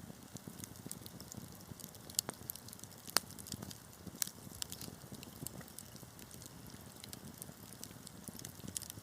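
Wood fire crackling: a steady low rumble of burning with scattered sharp pops. The loudest pops come about two, three and four seconds in.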